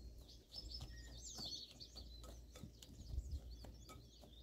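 Faint bird chirps and twitters in short high runs, with soft scattered clicks from hands working butter into crumble topping in a bowl.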